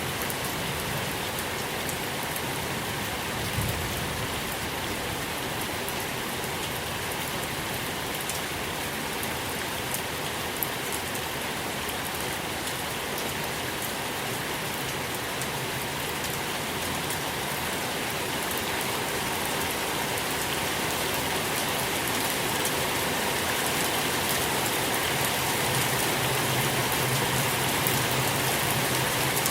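Steady rain falling and pattering on a surface, with fine individual drop ticks through it, growing slightly louder over the second half.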